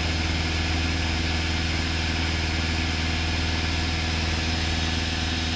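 Steady drone of a single-engine light aircraft's piston engine and propeller in flight, holding one even pitch and level.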